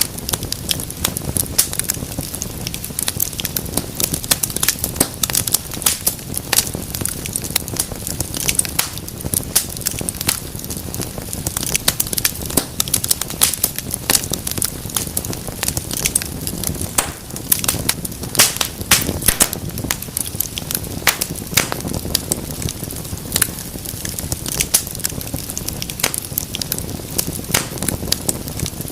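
Wood fire crackling, with frequent irregular sharp snaps and pops over a steady low rush of burning flame.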